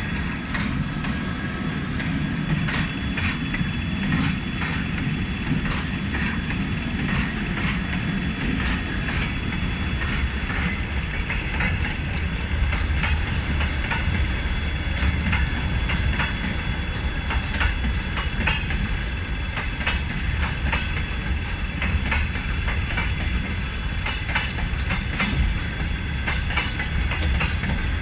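Electric-hauled freight train of open gondola wagons passing: a steady rumble of rolling wheels with many sharp clacks as the wheels cross rail joints.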